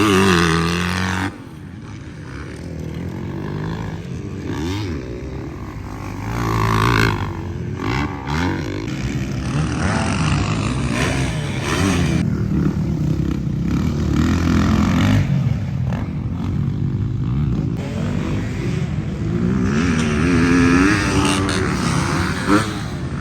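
Pit bike engines revving and easing off as they are ridden around the track, their pitch rising and falling again and again. One bike is loudest right at the start and drops away about a second in.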